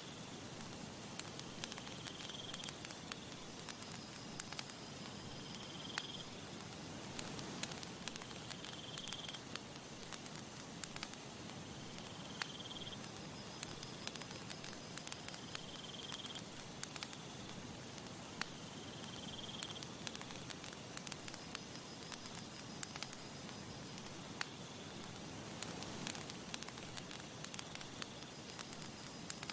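Campfire crackling steadily, with many sharp pops over a soft hiss. A short high chirp repeats about every three and a half seconds.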